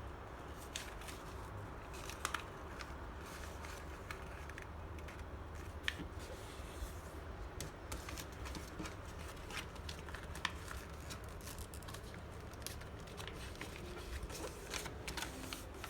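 Sheet of paper being folded and creased by hand into a thick, hard-to-fold layer: faint scattered crinkles and ticks of paper over a steady low hum.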